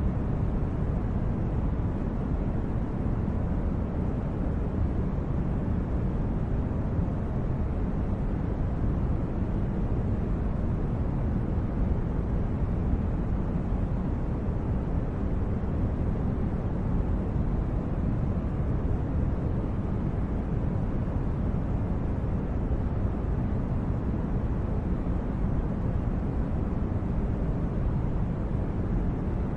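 Steady, even low rumbling noise with no distinct events, like a brown-noise background bed for sleep.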